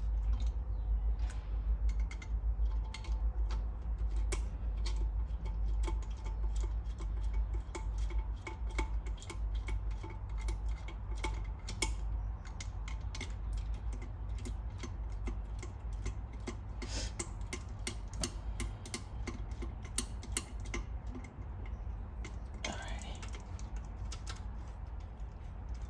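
Socket ratchet clicking in quick runs as the lower intake plenum bolts are snugged down, over a steady low hum, with a couple of brief scraping sounds in the second half.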